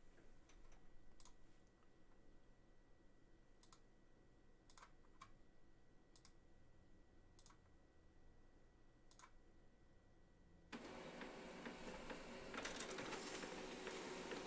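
Scattered light clicks and taps from handling a trading card box and packs. About eleven seconds in, a louder, steady rustle of crinkling pack wrappers begins.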